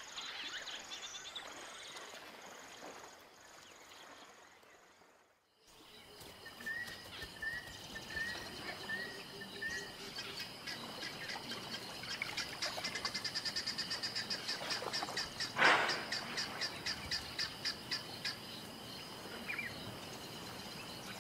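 Wild bush ambience: birds calling, first a steady high repeated note, then a short run of repeated whistles and a fast rhythmic chirping chorus. A single louder sound comes about three-quarters of the way through.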